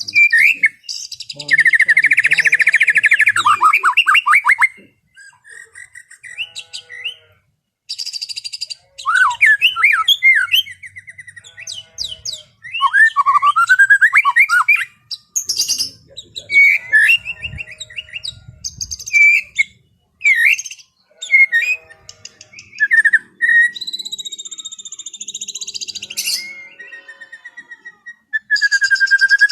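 White-rumped shama (murai batu) singing a varied song of loud whistles, fast trills and chirps that sweep up and down in pitch, delivered in short phrases with brief pauses between them.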